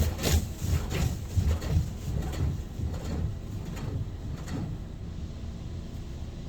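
PDQ ProTouch Tandem soft-touch in-bay car wash working on the car, heard from inside the cabin: low rumbling with rubbing and knocking that eases off about four seconds in to a quieter steady sound.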